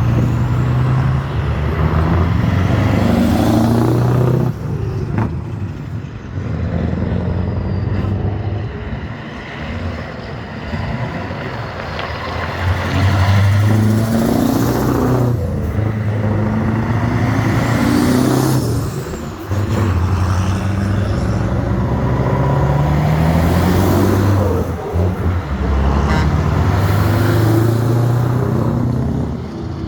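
Old trucks driving past one after another, their engines pulling and rising in pitch again and again as they go up through the gears, with short dips between.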